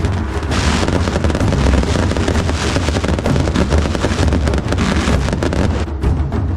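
Beehive fireworks castle firing: a loud, continuous crackle of many small bottle rockets going off at once, with a low rumble underneath.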